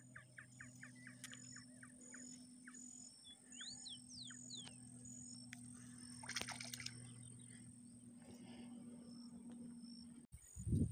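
Quiet birdsong at dawn: a series of short falling notes that slow down and fade, then a few whistled notes gliding up and down, over a thin high chirp repeating about every two-thirds of a second and a faint steady low hum. A brief rustle comes about six seconds in, and a louder low thump just before the end.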